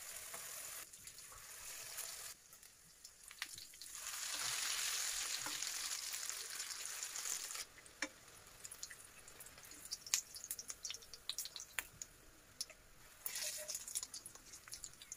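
Batter-dipped zucchini strips frying in hot oil in a frying pan: a steady sizzle, loudest in the middle, with scattered sharp clicks and crackles in the second half.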